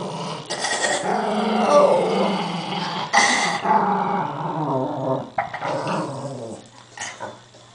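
Pet dog growling continuously, with two sharper snarling outbursts about half a second and three seconds in, tailing off near the end.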